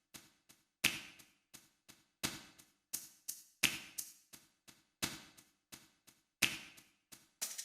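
Boss DR-01S rhythm machine playing a sparse, quiet percussion preset. Sharp, short hits fall in an even pattern: an accented hit about every second and a half, with lighter taps in between.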